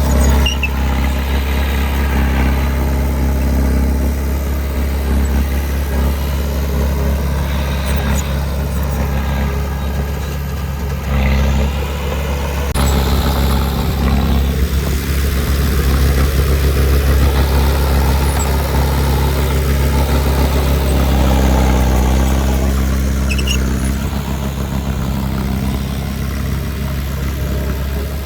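Heavy earthmoving machine's diesel engine running steadily with a deep, even hum, with fainter higher whines that rise and fall over it.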